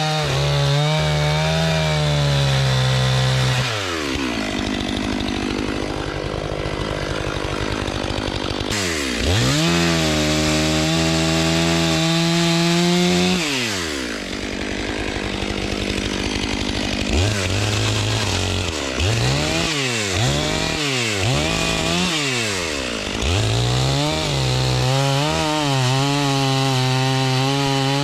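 Stihl MS500i fuel-injected two-stroke chainsaw cutting through logs at full throttle, dropping back to idle a couple of times between cuts. In the second half it is revved up and let down in quick repeated bursts.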